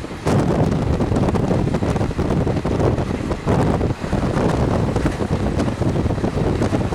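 Wind buffeting the microphone at the open window of a moving passenger train, over the train's steady running rumble, with gusty dips now and then.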